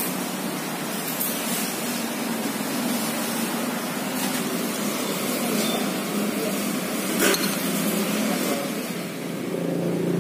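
Steady background noise of a street-food stall, with a low hum under it and a single sharp clink about seven seconds in.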